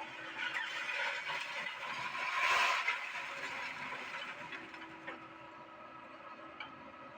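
Doosan excavator running while working, with a steady engine and hydraulic whine that swells to its loudest about two and a half seconds in, then eases back.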